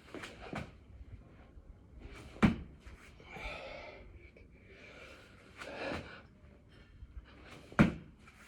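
Hard, heavy breathing from a man doing a long set of six-count burpees, with two sharp thuds about five seconds apart, the loudest sounds, as he drops to the floor on each rep.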